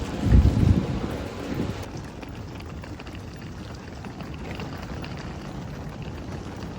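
Wind buffeting the microphone, heaviest in the first two seconds, over a steady low rumble.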